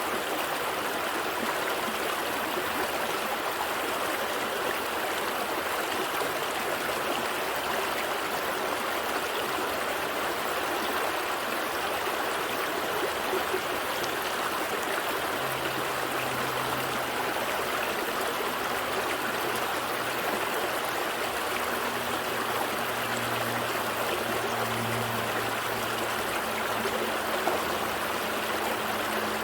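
Gentle stream flowing steadily, a continuous even rush and babble of water. A faint low hum joins about halfway through.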